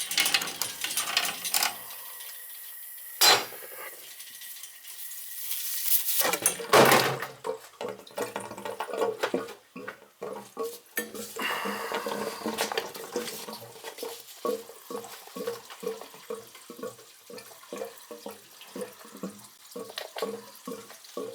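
Metal tools and brass fittings clanking and scraping as a dripping valve on a drained-down hot-water boiler is worked off for replacement, with water dribbling. There are a couple of sharp knocks early on and a run of evenly spaced clicks, about two a second, in the second half.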